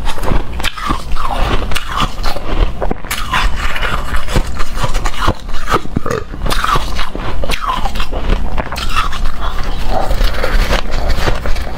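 Hard, frosty shaved ice being bitten and chewed close to the microphone: a dense, irregular run of crisp crunches mixed with many short squeaky notes.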